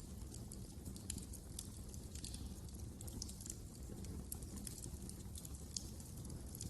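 Wood fire crackling: irregular sharp pops and snaps, several a second, over a low steady rumble of burning.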